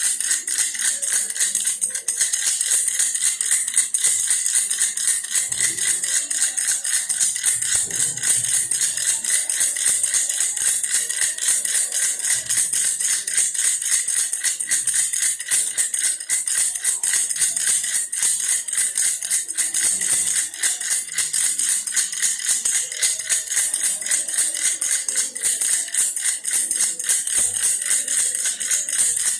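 Baby's toy bear rattle shaken continuously, a fast, even rattling with no pauses.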